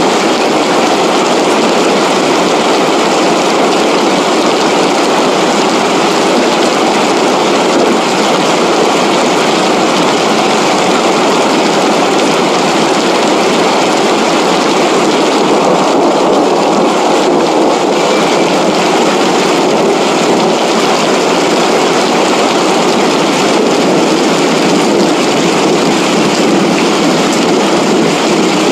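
Flash-flood water rushing down a wadi, a steady loud rush of water.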